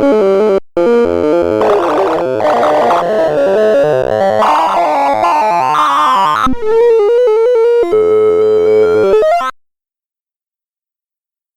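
Sorting-algorithm sonification: a rapid jumble of synthesized electronic tones, one short tone per array value accessed, changing pitch constantly. About two thirds of the way through, the tones thin out and a rising sweep climbs in pitch. Then the sound cuts off abruptly into silence.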